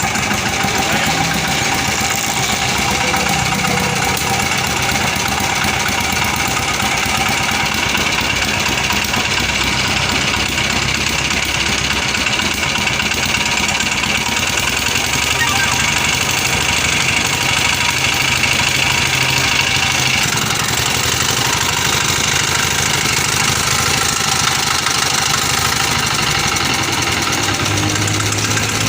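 Old Petter diesel engine running steadily.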